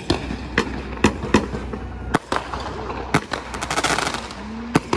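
Consumer fireworks going off: a series of sharp bangs at irregular intervals of about half a second to a second, with a burst of rapid crackling a little past the middle.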